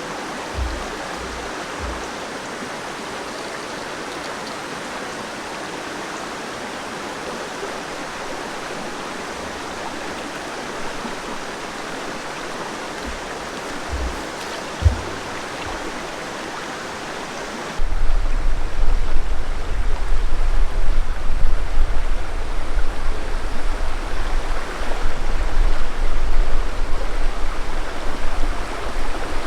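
River water flowing steadily over rocks, with a single knock near the middle. About 18 seconds in the sound changes abruptly and gets louder, with a deep, fluctuating rumble under the water.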